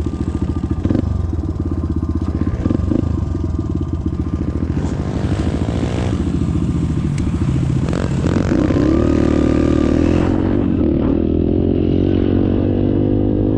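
Dirt bike engine running as it is ridden, with some rattling. The engine note changes pitch about five seconds in and grows louder and higher from about eight seconds in.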